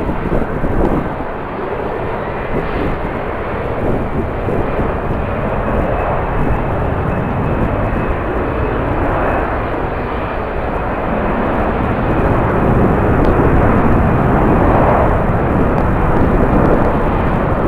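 Jet aircraft engines running, a loud steady noise that grows somewhat louder in the second half, with a faint high whine in the first half.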